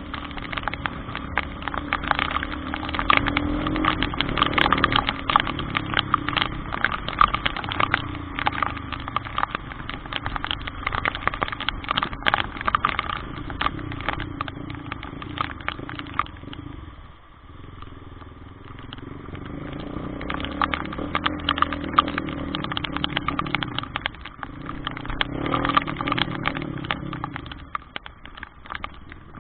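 Motorcycle engine running on the move under a dense patter of clicks. The engine eases off about 17 seconds in, then picks up again.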